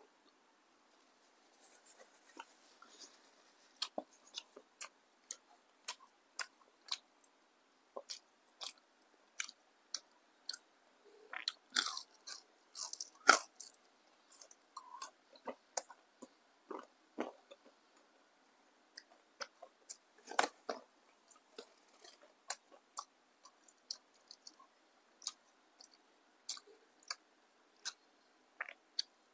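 Close-miked eating of battered fried tempeh: crisp bites and chewing in irregular short clicks throughout. The loudest crunches come in a cluster about 12 to 13 seconds in and again around 20 seconds.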